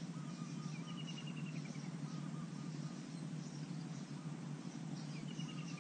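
Wild birds calling over a steady low background hum. One bird gives a rapid run of short high notes that drops slightly in pitch, about a second in and again near the end, with softer chirps between.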